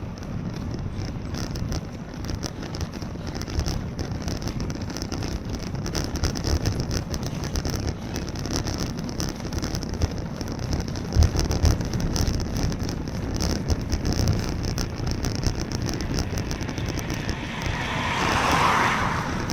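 Wind buffeting the microphone over a low rumble of bicycle tyres on a wet road while riding in the rain. Near the end a hiss swells up and stops, like a vehicle passing on the wet road.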